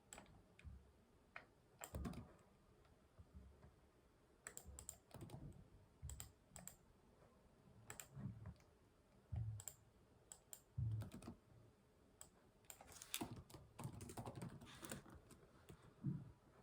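Typing on a computer keyboard: quiet, irregular keystrokes in short runs, with a longer spell of quick typing about three-quarters of the way through.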